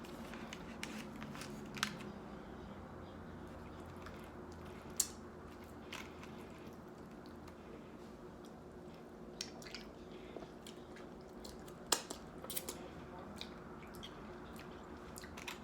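A person eating fufu and stew: scattered soft mouth and utensil clicks, the sharpest about 2, 5 and 12 seconds in, over a steady low room hum.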